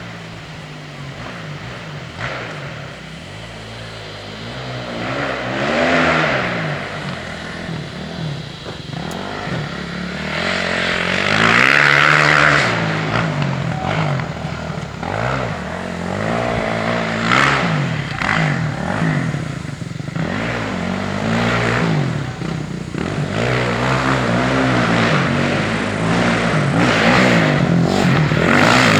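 Dirt bike engine being ridden hard, its revs rising and falling over and over as the throttle is worked, with a rushing noise that swells several times.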